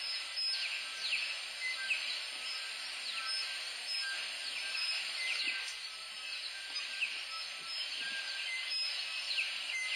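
Several tui singing at daybreak: short whistled notes and quick falling chirps, scattered irregularly over a steady hiss.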